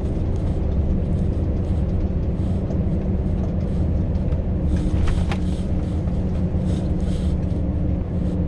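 Scania V8 truck engine pulling at a steady cruise with road noise, an even low drone. A few light clicks come about five seconds in.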